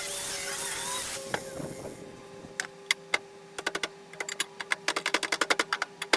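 Music fades out in the first second or so. From about halfway through comes a quick, irregular run of sharp clicks and taps over a faint steady hum.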